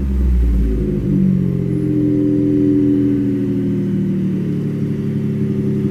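Ford F-150's 2.7-litre twin-turbo EcoBoost V6 running just after a cold start. It falls from a rev into a low tone, then settles into a steady idle about a second in.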